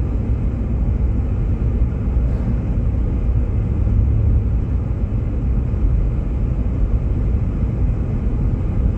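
Steady low rumble of a Jeep Grand Cherokee driving on a snow-covered road, heard inside the cabin: tyre and engine noise.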